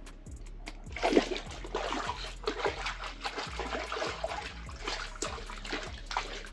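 Water splashing and trickling in an ice-fishing hole as a hooked pike is worked up through it, in irregular splashes with the loudest about a second in.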